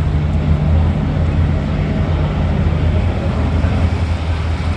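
A large vehicle engine running steadily at low revs: a deep, continuous rumble, with one of its tones dropping away about three seconds in.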